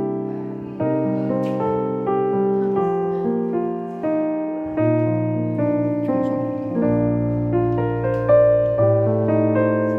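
Background piano music: a slow run of held, softly struck notes and chords.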